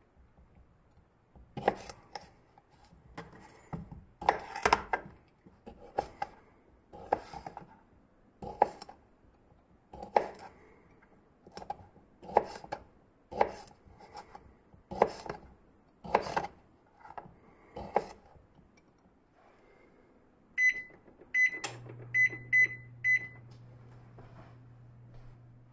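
Chef's knife slicing through a smoked sausage onto a plastic cutting board: a dull chop about every second or so, a dozen times. Then a quick run of short beeps from an LG electric range's touch controls as a burner is switched on, with a low steady hum coming in under the last beeps.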